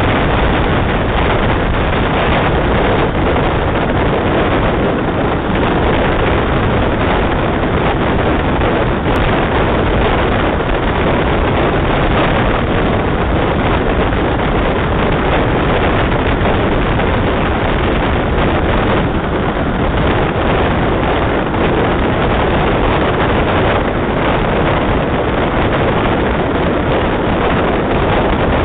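Steady loud wind rush on a microphone held at the window of a moving train, mixed with the running noise of the coaches on the track.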